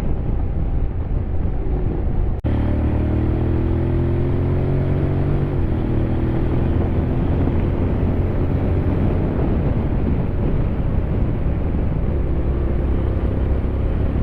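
Honda X-ADV 750's parallel-twin engine pulling uphill while riding. About two seconds in the engine note climbs as it accelerates, then settles to a steady drone.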